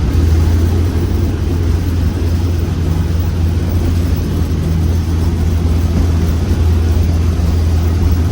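Class 47 diesel locomotive's twin-bank twelve-cylinder Sulzer engine heard from the cab, working under power on an up gradient after the power handle is opened a notch. A steady low drone that grows slightly louder right at the start.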